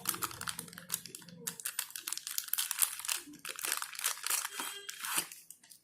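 Paper cards and leaflets from the headphone box rustling and crinkling as they are handled, in many quick irregular strokes.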